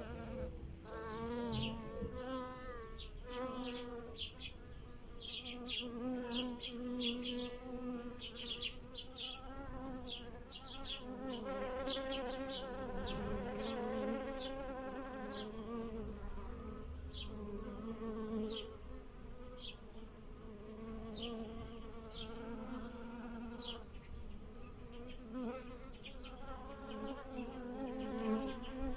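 Bees buzzing around lilac blossoms, several at once, their hum wavering and swelling as they fly close to the microphone and away.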